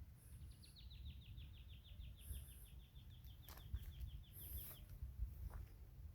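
A bird's rapid trill of about eight short notes a second, slowly dropping in pitch and lasting about four seconds, over a steady low rumble.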